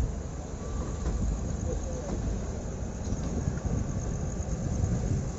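Passenger train rolling along the track, a steady low rumble from the running coaches.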